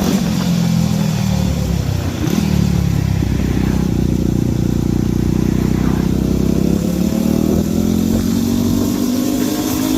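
Off-road motorcycle engine running under way. Its pitch drops about two seconds in, holds, then rises steadily through the second half as the bike accelerates.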